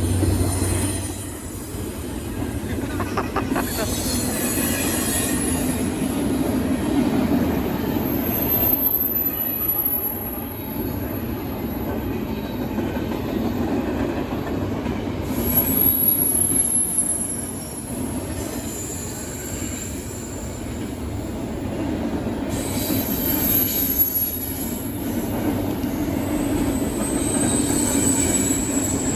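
Freight train rolling past with a steady rumble of cars on the rails. A high-pitched squeal from the wheels comes and goes several times.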